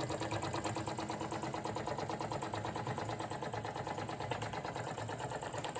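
Jensen #75 toy live steam engine running fast and steady under steam, a rapid, even clatter of exhaust beats and moving parts.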